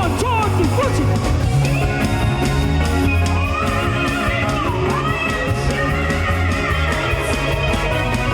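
Instrumental gospel band music: an electric guitar line with bending notes over a steady bass and drums.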